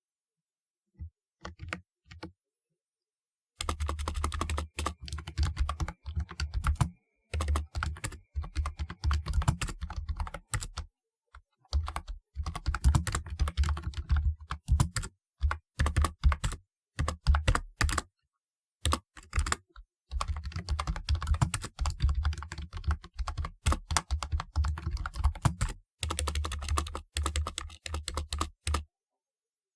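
Typing on a typewriter-style keyboard: a few single key clicks, then fast runs of clattering keystrokes lasting a few seconds each, broken by short pauses, stopping shortly before the end.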